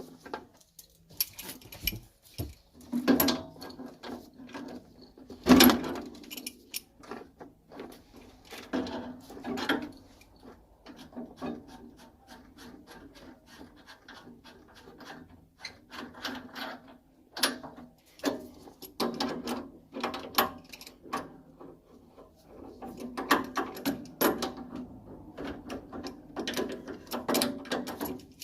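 Hand tools and metal boiler parts being handled during a repair: irregular clicks and knocks, the loudest about three and five and a half seconds in.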